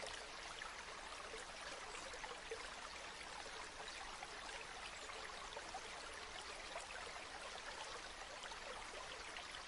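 Stream water flowing steadily: an even, soft rush with fine trickling and splashing throughout.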